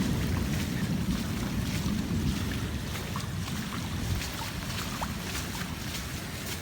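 Wind buffeting the phone's microphone, a low rumbling that slowly eases off.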